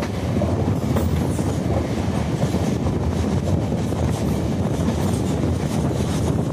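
Moving passenger train heard from beside its coach: a steady rumble of steel wheels running on the rails, with a few faint clacks over rail joints.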